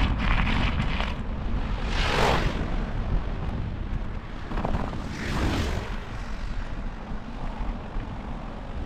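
Wind rumbling on the microphone of a moving bicycle, with two vehicles swishing past on the road, about two seconds in and again about five seconds in.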